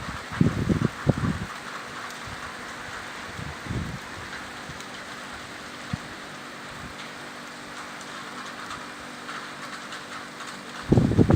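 Heavy rain falling steadily, a continuous hiss of drops. Brief low gusts of wind buffet the microphone near the start and again at the end.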